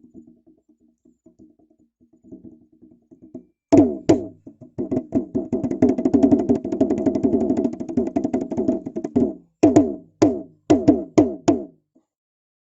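Traditional Papuan drumming: soft beats at first, then two loud strokes, a fast roll lasting several seconds, and a closing run of single strokes before it stops abruptly.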